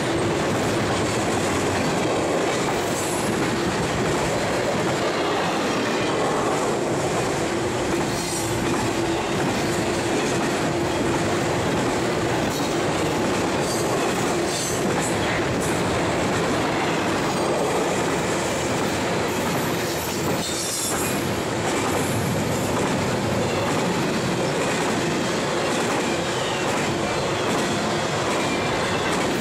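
Container cars of a double-stack intermodal freight train rolling past at a steady level, with a few brief high wheel squeals.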